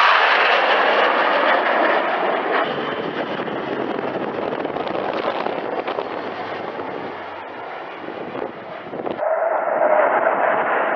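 Jet engine noise from low-passing fighter jets: a loud, steady rushing sound that changes abruptly twice, near the start and again about nine seconds in, as one flyover clip cuts to another.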